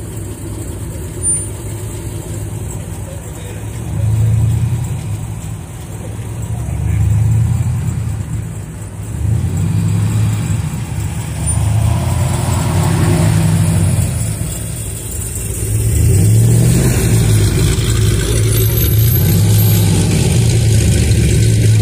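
A line of muscle cars, a modern Dodge Challenger and Chevrolet Camaro followed by a red classic muscle car, rolling out slowly with their engines running at a low rumble. The rumble swells several times as cars move off and pass, and is loudest and steady over the last few seconds as the red classic car approaches.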